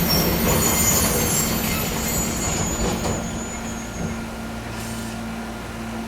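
Fukui Railway 200-series railcar running, its wheels squealing high over the rumble for the first few seconds. The running noise then eases off to a steady low hum.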